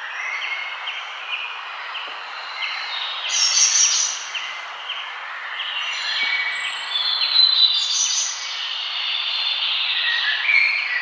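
Several forest birds singing and chirping together: a run of short repeated chirps, with louder trilling phrases about three and a half seconds in and again around seven to eight seconds. A steady hiss of background noise runs underneath.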